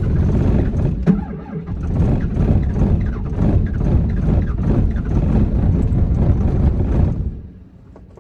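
Truck engine cranking and struggling to run in bitter cold, a hard cold start, until it cuts out about seven seconds in.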